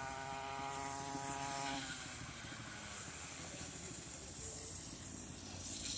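Dirt bike engine running some way off, holding a steady pitch for about two seconds and then fading to a faint background hum.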